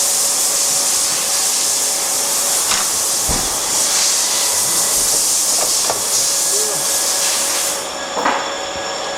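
Steady loud hiss of a jet of gas or hot air, which stops abruptly about eight seconds in. It is aimed at a cable frozen in extreme cold to thaw it.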